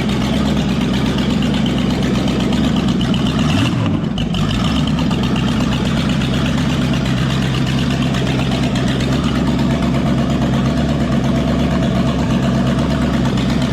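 1987 Cadillac V8 running steadily at idle on an engine run stand with open exhaust. There is a brief dip in the sound about four seconds in.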